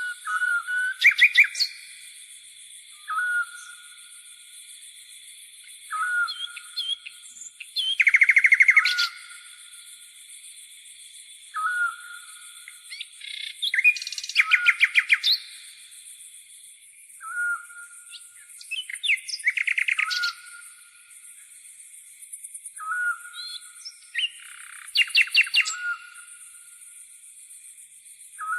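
Birds singing: a short call repeats every two to three seconds, and four louder bursts of rapid repeated notes come at intervals, over a continuous high-pitched insect buzz.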